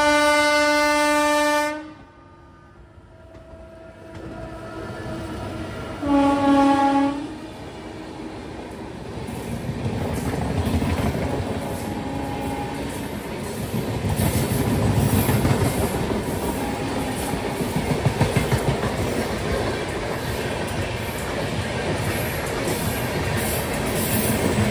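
Indian Railways train horn sounding a long blast, then a shorter second blast about six seconds in. After that comes the running noise of a moving passenger train, growing louder, with wheels clattering over rail joints.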